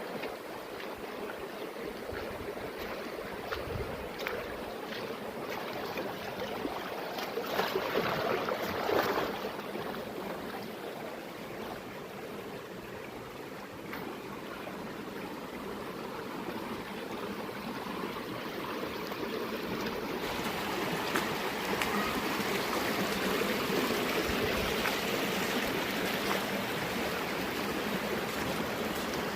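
Water of a mountain stream flowing and splashing steadily, growing louder about two-thirds of the way through.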